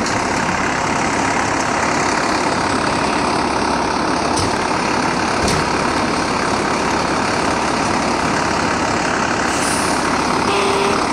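Fire truck's diesel engine running steadily close by, with two faint clicks about four and a half and five and a half seconds in.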